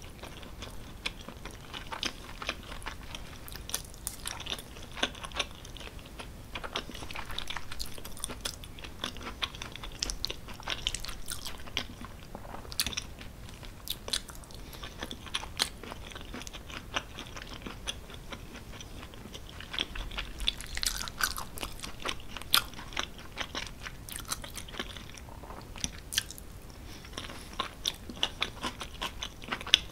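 A person chewing mouthfuls of creamy cheese tortellini with bacon, peas and green beans right at the microphone: wet mouth sounds with many short, sharp clicks.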